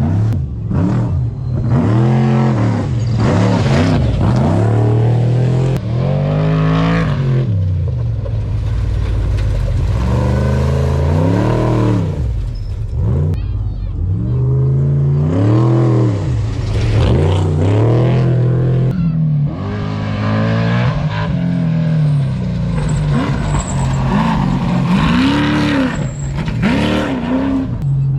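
Trophy trucks' V8 engines revving hard, the pitch rising and falling again and again as the throttle is worked over rough desert ground, with a steady low drone underneath.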